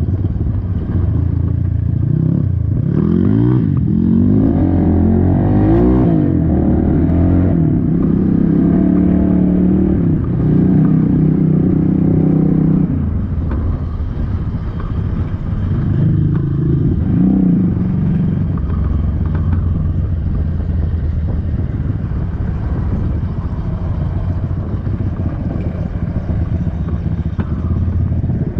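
Dirt bike engine running while riding, its revs rising and falling several times in the first half, then settling lower and steadier after about thirteen seconds.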